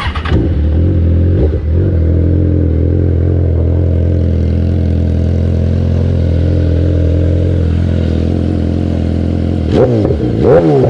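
BMW S1000RR inline-four engine through an Arrow Pro exhaust, idling steadily, then blipped twice near the end, the pitch shooting up and dropping back each time.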